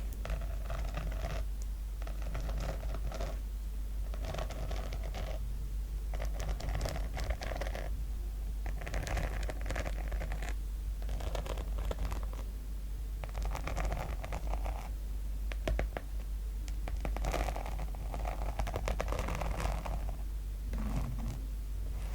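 Sequins on a notebook cover being scratched in repeated rasping strokes, each about a second long with short pauses between them.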